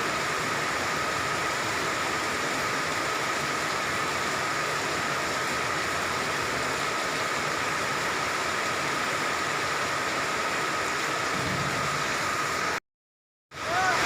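Steady hiss of falling rain, with a faint thin high tone held underneath. The sound cuts out completely for about half a second near the end.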